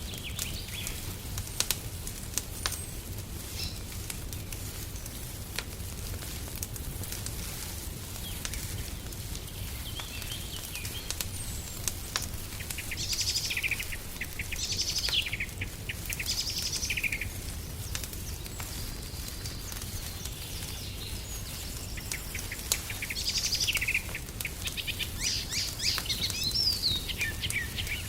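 Songbirds chirping in short bursts, mostly in the second half, over a fireplace fire crackling with scattered sharp pops and a low steady rumble.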